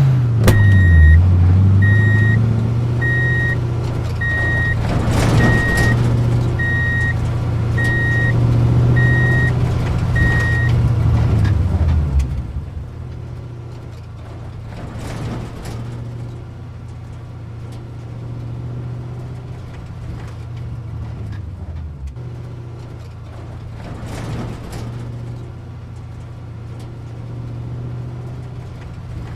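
A construction vehicle's reversing alarm beeping at a steady pace, about one and a half beeps a second, over its engine running at a low steady hum. The beeping stops about ten seconds in, and the engine carries on more quietly.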